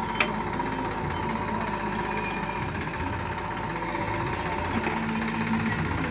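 Heavy diesel engine running steadily, with a thin steady whine above its low rumble and a brief click just after the start.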